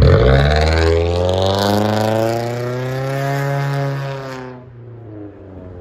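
Straight-piped 3.5-litre V6 of a 2017 Nissan Altima revved once: it comes in loudly, climbs in pitch for about a second and a half, then winds slowly back down and settles to a quiet idle near the end.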